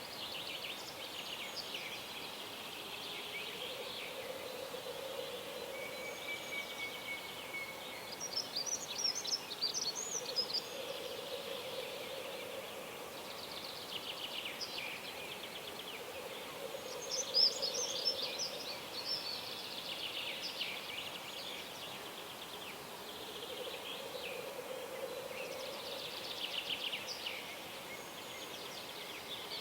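Dawn chorus of several songbirds singing, with a low, drawn-out call repeating every five or six seconds beneath the song.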